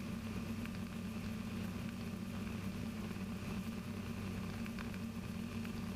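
Rotax 582 two-stroke engine of a Kitfox IV light aircraft running at a steady cruise setting in flight, an even drone with no change in pitch.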